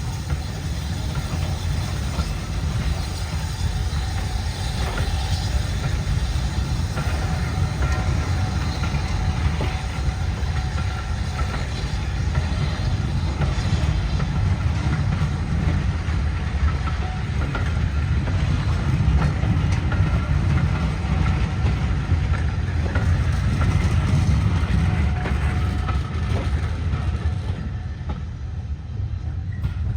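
A train in motion: a steady low rumble of wheels running on the track, with faint clicks over it.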